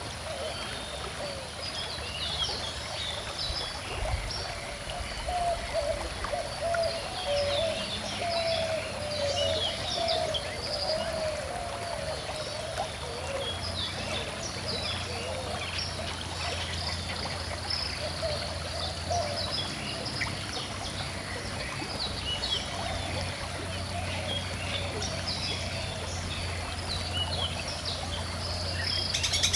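A calm river flowing and trickling steadily, with many birds chirping and singing over it.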